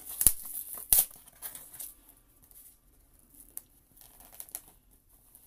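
A mailed package being torn open by hand: two sharp rips about a second apart near the start, then brief crinkling of the packaging and a few faint ticks.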